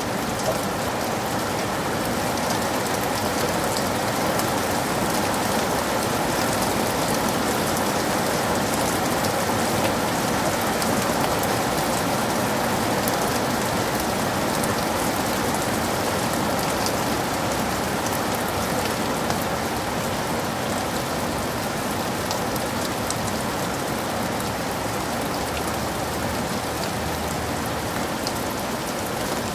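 Heavy rain falling steadily: a dense, even hiss with scattered sharp drop hits.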